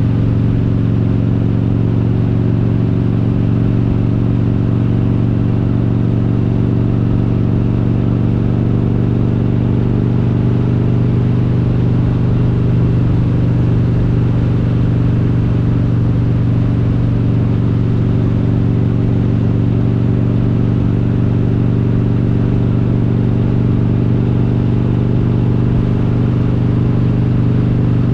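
Harley-Davidson Road King's S&S 95-inch V-twin with Super Stock heads cruising at a steady speed, its engine note holding level with no revving or shifting.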